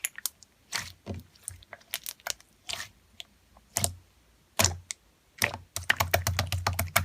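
Clear slime being squished and pressed by hand, making irregular sticky clicks and pops that come quickly and close together in the last second and a half.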